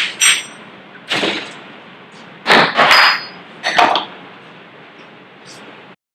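Metal clanks and clinks of an espresso machine portafilter with a blank filter basket being handled at the group head, several sharp knocks with a short high ring. The sound cuts off abruptly near the end.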